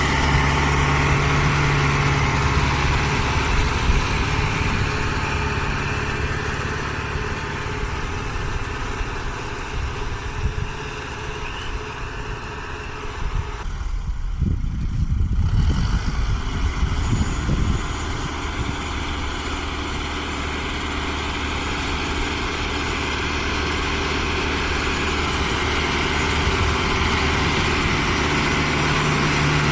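Case CX80 tractor's diesel engine running steadily under load while pulling a four-furrow plough through heavy soil. About halfway through, the engine note fades under a few seconds of low rumbling.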